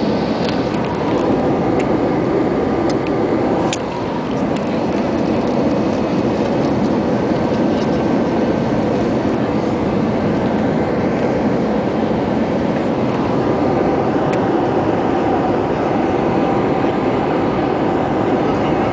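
Steady roar of airliner cabin noise, jet engines and rushing air heard from inside the cabin as the plane comes in to land, with faint steady whining tones and a few light clicks.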